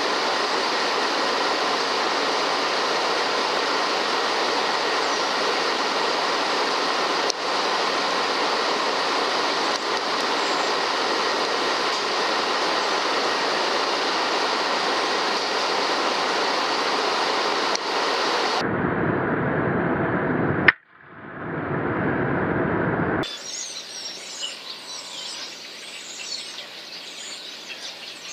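A steady loud rushing noise, broken by a single sharp crack of an FX Impact .177 PCP air rifle shot about 21 seconds in. A couple of seconds later the noise gives way to quieter surroundings with small birds chirping.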